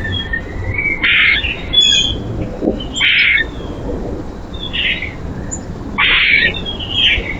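Wild birds at a feeder calling: a series of five harsh, rasping calls about a second or two apart, with faint, thinner chirps in between.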